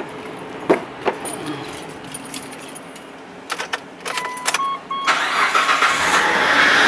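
Keys clicking, a few short dashboard warning beeps, then a Mitsubishi Pajero's engine cranks and starts about five seconds in. It runs with a high, very noisy squeal from the accessory belt drive, which the owner puts down to a faulty pulley: the belt tensioner.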